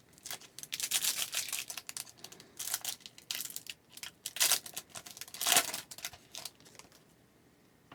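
A trading-card pack wrapper being torn open and crinkled, with a run of crackling tears and crumples that is loudest around the middle and dies away near the end.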